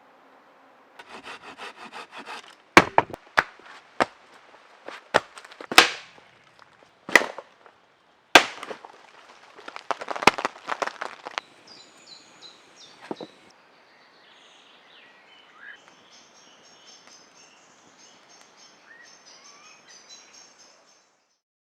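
Hand work on wood: a short stretch of rasping saw strokes, then about seven sharp knocks on wood spaced roughly a second apart, and another burst of rasping. After that the work stops, and faint high chirps from the surroundings remain.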